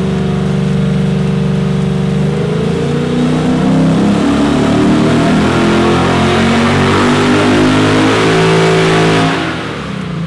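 The Lexus IS F's 5.0-litre V8 and exhaust on a dyno run, with the air-conditioning compressor switched off. The engine holds a steady speed for about two seconds, then pulls up through the revs under load for about seven seconds, and lets off near the end.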